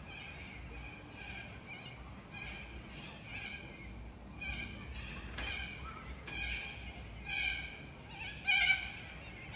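Cockatoo giving a run of short, bleating calls, roughly one a second, growing louder toward the end.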